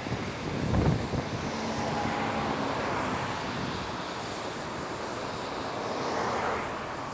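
Wind buffeting the microphone outdoors: a steady rushing noise that swells briefly about a second in, with a faint low hum underneath.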